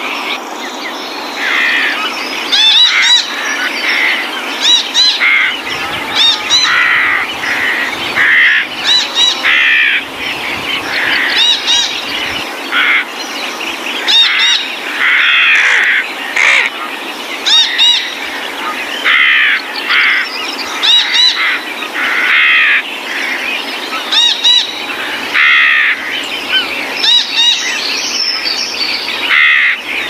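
Several birds calling and chirping over one another, short arched calls repeating roughly once a second.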